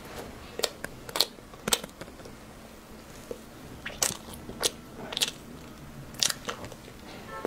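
Close-miked biting and chewing of a red-date (jujube) cake bar with walnuts, heard as a scatter of sharp mouth clicks and smacks every second or so.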